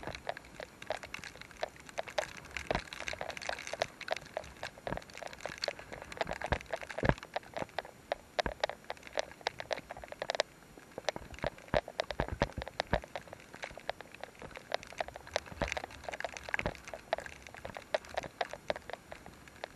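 Rain pattering: dense, irregular drops ticking close by.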